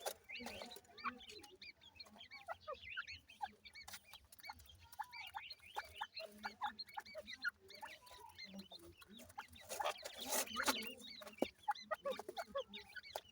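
A group of ringneck pheasant chicks peeping constantly in quick, high chirps, with scattered small clicks and a brief louder rustle about ten seconds in.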